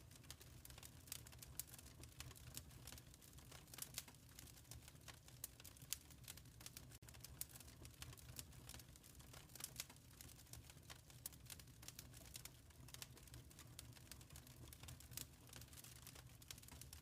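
Wood fire burning softly: a low steady rumble of flames with many small irregular crackles and pops.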